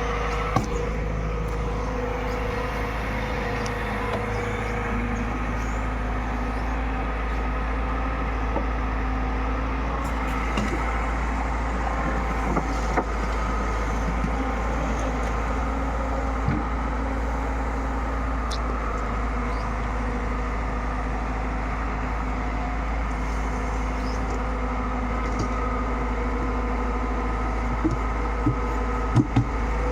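JCB 3DX backhoe loader's diesel engine running steadily under work, with a few sharp knocks and clanks now and then.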